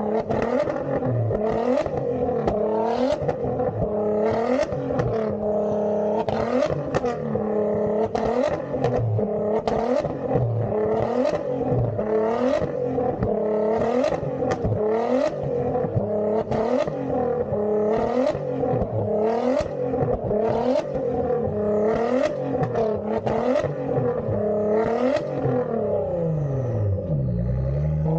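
Straight-piped Nissan GT-R twin-turbo V6 revved over and over, about once a second, with a crackle of exhaust pops at each rev. Near the end the revs sink low and then climb again.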